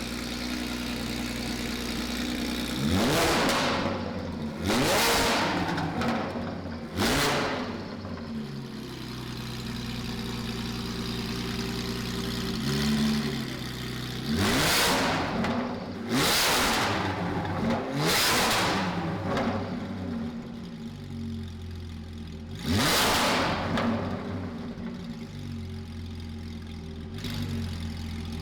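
Porsche 718 GT4 flat-six through a JCR full titanium exhaust, idling and revved in place in seven sharp blips that snap up and drop back: three about two seconds apart early, three more in the middle and one more later. It is really loud.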